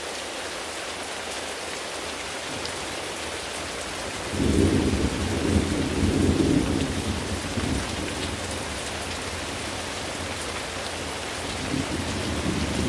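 Steady rain, with a roll of thunder breaking in suddenly about a third of the way through and rumbling for several seconds before fading; a second rumble of thunder builds near the end.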